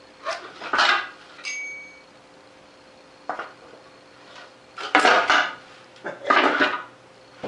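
Metal parts of a lathe tool holder knocking and clattering as they are handled and fitted together, in four separate bursts of clanks. One clank near the start leaves a brief metallic ring.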